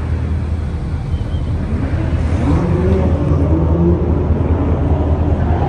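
Car on the move: a steady low drone of engine and road noise, with faint shifting tones over it from about two seconds in.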